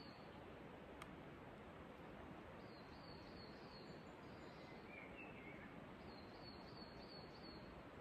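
Near silence: quiet pine forest ambience, a faint steady hiss with a small bird calling twice in short runs of quick high notes, about four notes then five, a few seconds apart.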